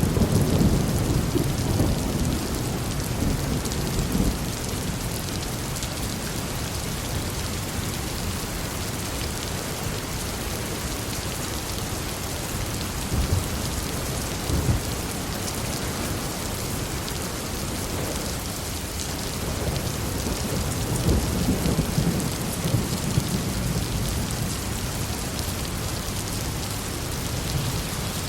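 Heavy rain falling steadily as an even hiss, with low thunder rumbling at the start and dying away over the first few seconds, then rumbling again about two-thirds of the way through.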